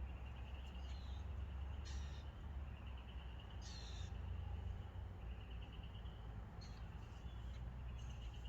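A steady low hum with a faint high trill repeating every second or two, and a few small clicks from small carburetor parts being handled.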